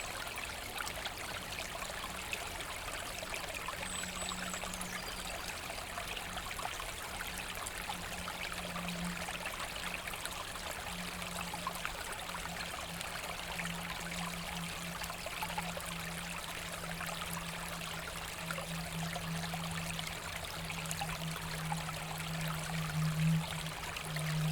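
Forest brook running and splashing, a steady rush of water. A low steady hum sets in about four seconds in and grows louder towards the end.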